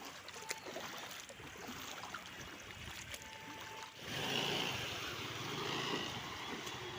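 Quiet street noise with a few small clicks, then about four seconds in a vehicle drives through floodwater on the road and the water swishes and surges steadily around it.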